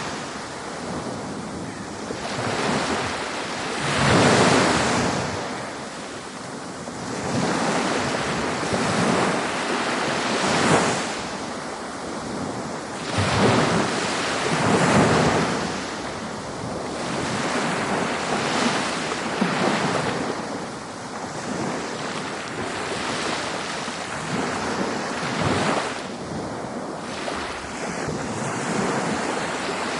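Ocean waves breaking on a beach: a rushing surf that swells and falls back every three to four seconds.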